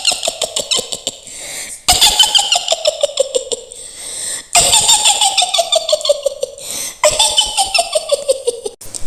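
Mak Lampir's witch cackle: a woman's high-pitched "hi-hi-hi" laugh in rapid pulses. It comes in a run already going at the start and three more runs starting about 2, 4.5 and 7 seconds in, each falling in pitch.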